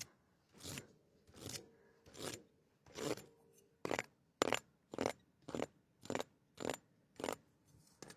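A regular series of short scraping strokes, about one every 0.7 seconds, turning crisper and sharper-edged from about four seconds in.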